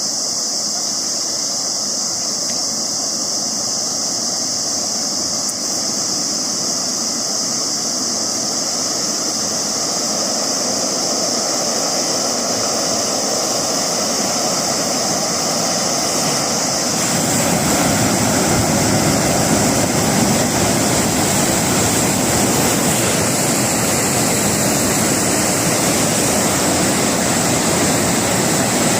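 Steady loud rush of water. About seventeen seconds in it becomes fuller and deeper.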